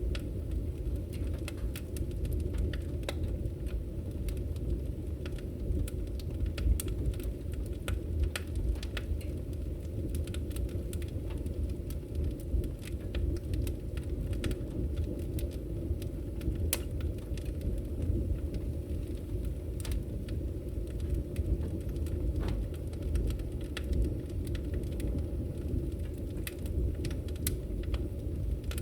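Wood fire burning in a fireplace: a steady low roar of the flames with frequent sharp, irregular crackles and pops from the logs.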